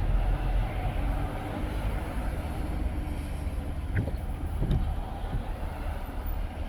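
A car being driven, heard from inside: a steady low rumble of engine and road noise, with a few short knocks, the clearest about four seconds in.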